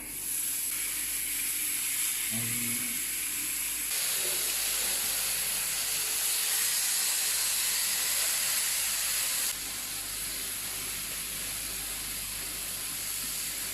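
Marinated chicken sizzling in a hot, oil-sprayed double-sided pan: a steady frying hiss that grows louder about four seconds in and eases slightly near ten seconds.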